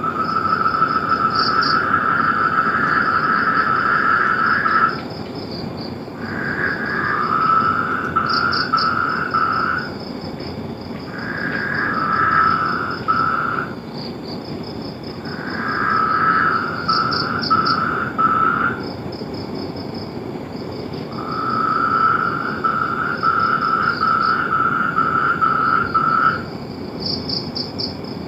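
Frogs calling in long trills made of rapid pulses. Each trill lasts a few seconds, and several come one after another, some stepping down in pitch partway through. A fainter, higher chirping pattern and a steady hiss run beneath them.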